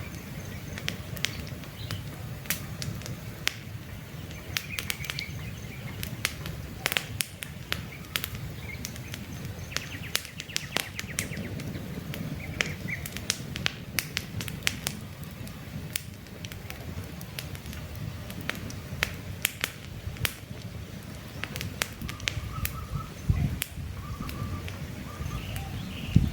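Campfire burning with a steady low rumble and frequent sharp crackles and pops from the burning wood. Short bird chirps come in now and then over the fire.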